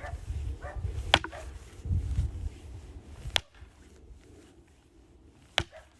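Axe blows splitting firewood: three sharp strikes, about two seconds apart.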